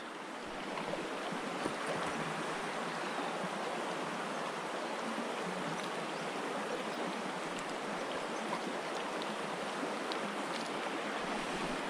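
River water rushing steadily over a shallow run.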